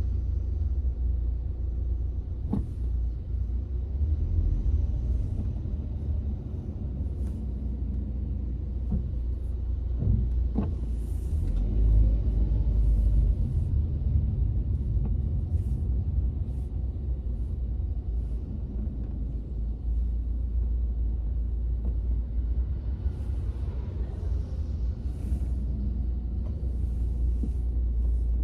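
Steady low road and engine rumble inside a moving car's cabin, with a few faint knocks.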